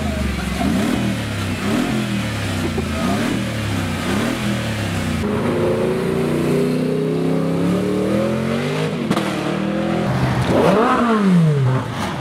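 Car engine revving: a series of short revs for the first few seconds, then a longer, steadier engine note. Near the end comes one sharp rev that rises quickly and falls away, the loudest moment.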